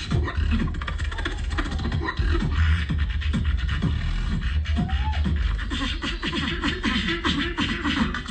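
Live battle beatboxing: a continuous deep vocal bass under fast, dense percussive hits, with a short rising-and-falling vocal glide about five seconds in and a quick run of short falling pitched sweeps near the end.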